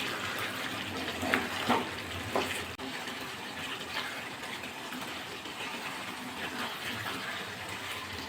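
Chicken simmering and sizzling in its own released juices in a pan, a steady bubbling hiss. A few short scrapes and knocks of a spoon stirring in turmeric and salt between about one and two and a half seconds in, and once more about four seconds in.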